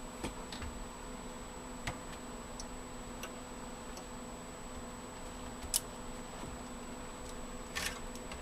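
A few scattered light clicks and ticks from computer cables and plastic connectors being handled inside a PC case, the loudest a little before six seconds in. Under them runs a steady faint hum with a thin high whine.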